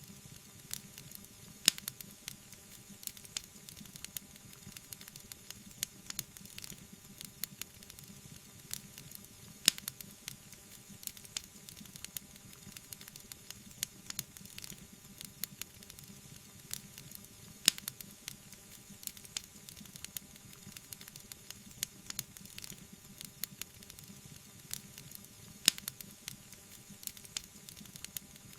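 Wood fire crackling: a dense run of small sharp clicks over a soft steady hiss, with four louder pops spaced evenly, about eight seconds apart.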